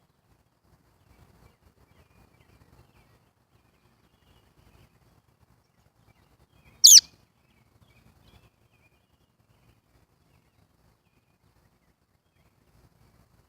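A baby bird gives a single sharp, high chirp that sweeps quickly down in pitch, about halfway through. Faint low rustling sounds lie underneath.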